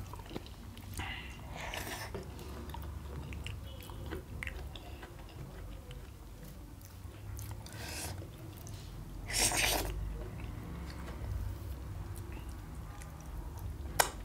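Close-up chewing and biting of mutton curry and rice eaten by hand, with fingers scraping rice off a steel plate. A brief louder rustle comes about nine to ten seconds in and a sharp click near the end, over a steady low hum.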